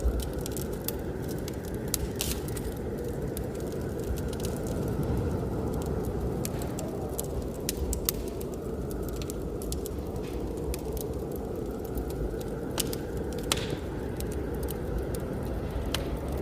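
Wood fire crackling in a fireplace, irregular sharp pops and snaps over a steady low roar of flames and blizzard wind.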